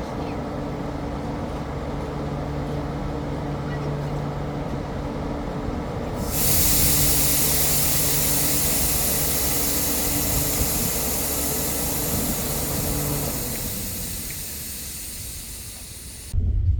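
Passenger train with a steady hum, then a loud hiss that starts suddenly about six seconds in and slowly fades. Near the end the sound cuts abruptly to a low rumble.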